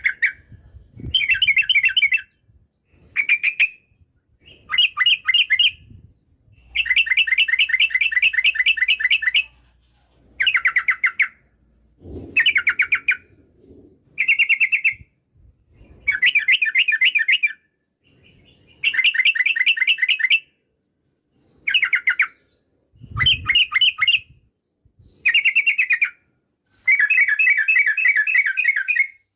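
Yellow-vented bulbul (trucukan) singing: about a dozen quick, bubbling phrases of rapid notes, each a second or two long, repeated with short pauses between them.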